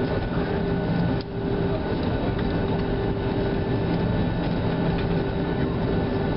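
Cabin noise inside a Boeing 737-700 on the ground: its CFM56 jet engines running steadily with a low hum and a rumble through the airframe as the airliner taxis.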